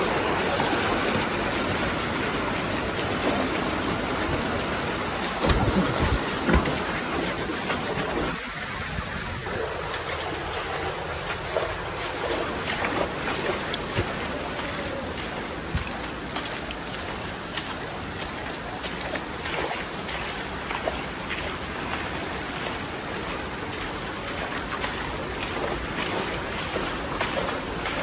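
Steady rushing water of a stream, a constant noisy wash, with a few knocks about six seconds in.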